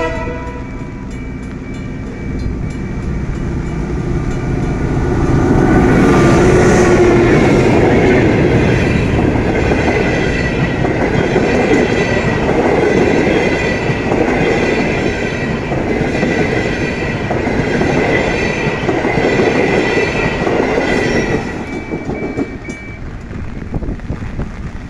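Long-distance passenger train passing close by: a loud rumble that builds as the locomotive arrives, then the coaches' wheels clattering over the rails, with steady high tones ringing over it. It eases off near the end as the last coaches go by.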